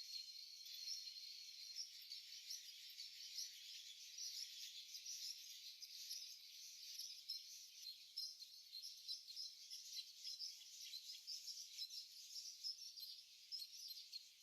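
A flock of small ornamental cage birds chirping and chattering continuously, faint, many short high calls overlapping.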